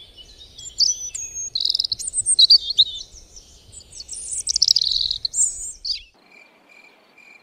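Songbirds chirping and twittering in quick, high-pitched phrases, stopping abruptly about six seconds in. After that a faint insect chirp repeats evenly, about two times a second.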